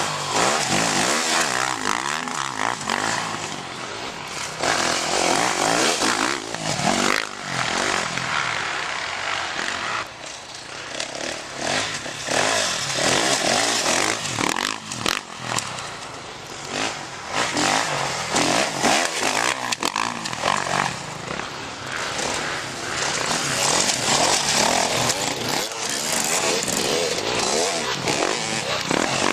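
Off-road enduro/motocross motorcycle engines revving hard, their pitch rising and falling with each throttle change and the loudness swelling and fading as the bikes come and go.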